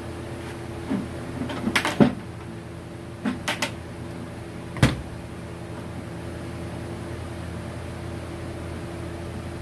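A few sharp clicks and knocks, grouped at about two seconds in, three and a half seconds in, and once near five seconds in, over a steady low hum.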